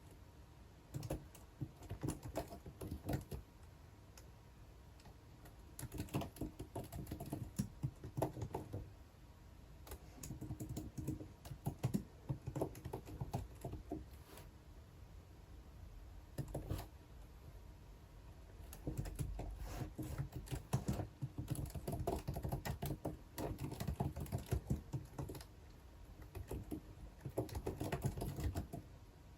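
Computer keyboard typing in bursts of rapid key clicks lasting a few seconds each, with short pauses between them.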